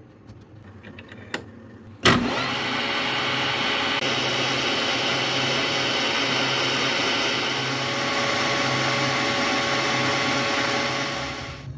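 A few light clicks, then a machine starts suddenly about two seconds in and runs with an even, hissing noise until it stops abruptly just before the end.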